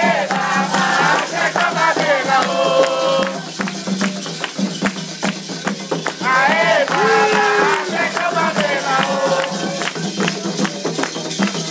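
Candomblé ritual music for Xangô: voices sing two phrases over a steady beat of percussion strokes and shaken rattles.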